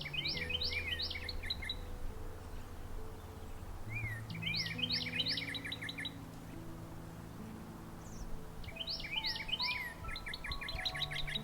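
Birdsong over soft background music: a songbird sings the same short phrase of quick down-slurred whistled notes three times, about four seconds apart, while slow held music notes change underneath.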